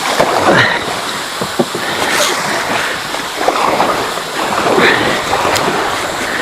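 Rushing river water below a waterfall, with kayak paddle strokes splashing about every second and a half as a paddler works against the strong current.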